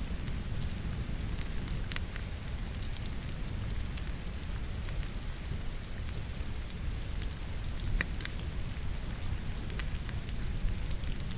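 Firewood logs burning in a fireplace, crackling with irregular sharp pops, over a steady rush of falling rain.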